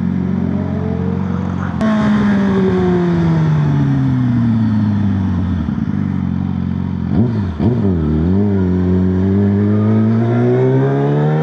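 Motorcycle engine heard from the rider's seat. Its pitch falls steadily for several seconds as the bike slows. It dips and recovers quickly about seven seconds in, then climbs steadily as the bike accelerates, with a gear change right at the end.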